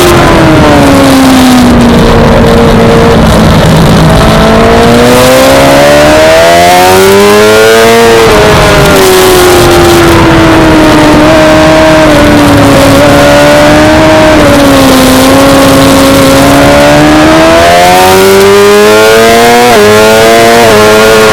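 Suzuki GSX-R600 inline-four engine revving hard on a race track. Its pitch falls as the bike slows, climbs to a peak about 8 seconds in, and holds lower through the middle. It climbs again near the end, with a quick drop at a gear change before rising once more.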